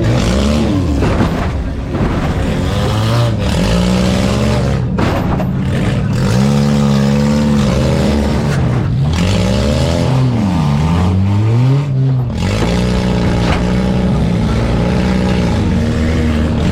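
Several four-cylinder demolition derby cars' engines revving hard, their pitch rising and falling again and again as they accelerate and back off, with occasional sharp knocks.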